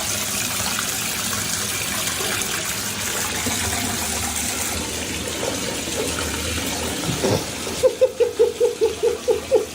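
Water running steadily, like a tap pouring. Near the end a quick run of regular pulsing sounds comes in, about four a second.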